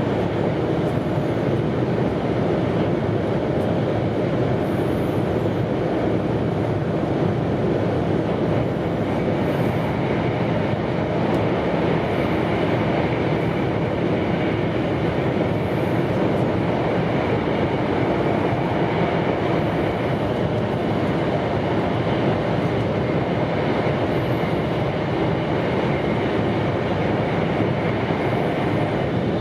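Steady running noise of an E2-series Shinkansen heard from inside the passenger car: an even rumble and hiss with no distinct events.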